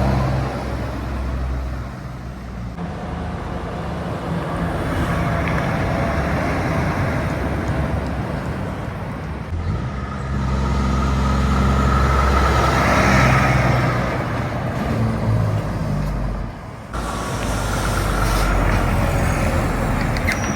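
Heavy trucks passing on a highway one after another, their diesel engines droning over tyre and road noise. A higher whine rises in about halfway through, and a fresh vehicle cuts in suddenly near the end.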